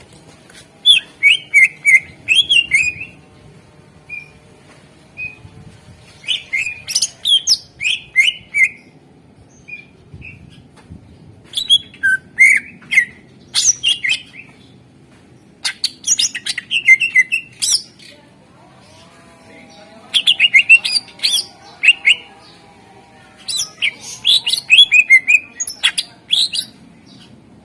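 Greater green leafbird (cucak ijo) singing loud bouts of rapid, sliding chirps and whistles, a burst every few seconds with short pauses between.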